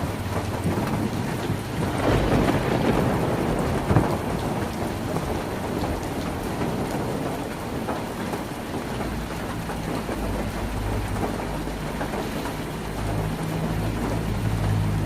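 Heavy rain drumming on a tin roof in a steady dense patter, swelling briefly a couple of seconds in. A low rumble builds under it in the second half.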